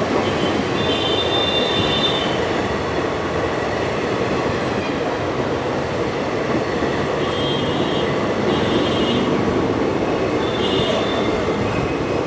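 Indian Railways passenger coaches of an express train passing at speed, a loud steady rumble of wheels on rail. Brief high-pitched wheel squeals come through a few times: about a second in, twice in the second half, and near the end.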